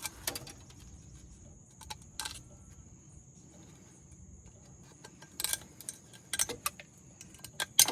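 Scattered sharp clicks and light metallic knocks, about six over several seconds, from hand tools and parts being handled while a dozer's turbocharger is cleaned of rust. A steady high-pitched whine sits underneath.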